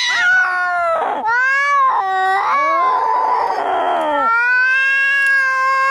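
Angry cats caterwauling as in a fight: a run of short, wavering yowls, a rough, rasping stretch in the middle, then one long drawn-out yowl near the end.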